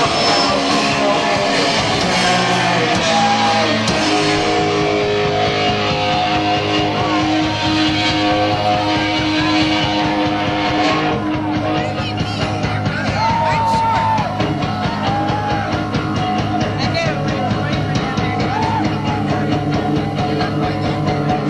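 Live rock band playing loudly with distorted electric guitar, bass and drums, as captured by an audience cassette recorder in a club.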